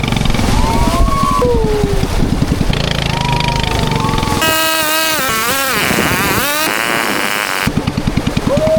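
A small motorboat's engine running with a fast, even chug. About four seconds in, it is abruptly replaced for about three seconds by a warbling pitched sound with a hiss, then the engine returns.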